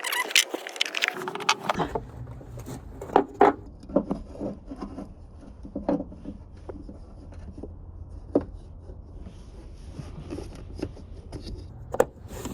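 Scattered clicks, knocks and scrapes of a plastic oil bottle and funnel being handled at the engine's oil filler while oil is poured in. A low steady rumble sets in about two seconds in.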